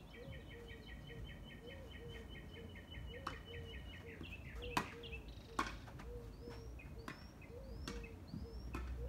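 Birds calling: a rapid chirping trill for the first four seconds, then short rising chirps, over a low note repeated about twice a second. A few sharp knocks come near the middle, the loudest about five seconds in.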